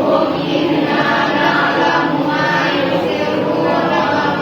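Many voices singing together in a choir-like mass, steady and fairly loud.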